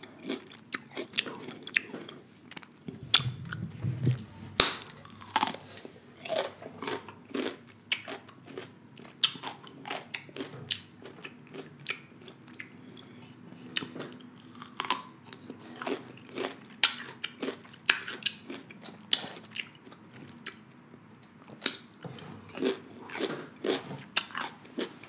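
Close-up crunching and chewing of a raw cucumber spear: crisp, irregular bites and chews, several a second, right at the microphone.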